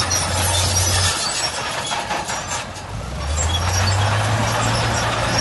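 Heavy earthmoving machinery running, a diesel engine's low hum over a wide steady clatter and rumble. The engine note drops about a second in, dips lowest near three seconds, then picks up again.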